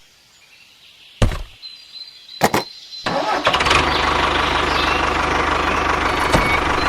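A moment of quiet, then two sharp clicks a little over a second apart, after which a vehicle engine starts and runs steadily at idle.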